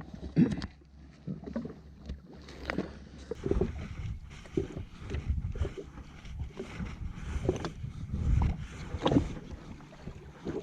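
Water slapping and sloshing against a jet ski's hull, with irregular knocks and clunks against the craft.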